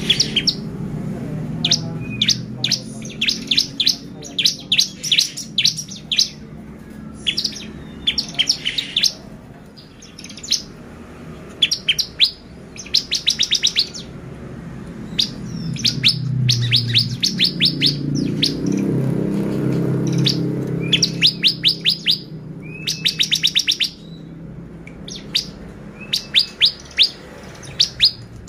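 Bar-winged prinia (ciblek) singing hard: rapid runs of sharp, high chirping notes in bursts, one after another. Underneath there is a low hum that swells and fades in the middle.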